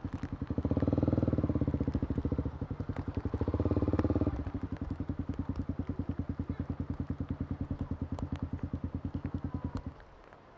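Kawasaki KLX250 single-cylinder four-stroke motorcycle engine running with an even thumping beat, revved up twice in the first few seconds, then settling back to a steady beat. It cuts off suddenly near the end, as the engine is switched off.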